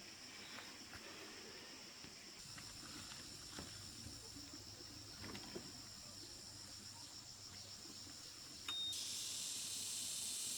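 Insects trilling in a steady, high, pulsing chorus, with a few faint knocks. Near the end a brief high beep sounds, then a louder steady hiss sets in.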